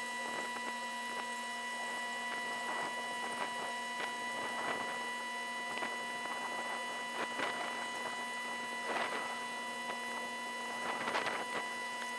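A steady, even-pitched hum with faint scattered clicks and crackles, a few louder ones near the end.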